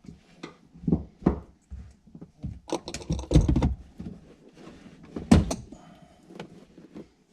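Knocks, thumps and clicks of a car's floor carpet being pried up and pulled loose with a pry tool, the carpet held down by snaps. A dense cluster of knocks comes about three seconds in and the sharpest knock about five seconds in.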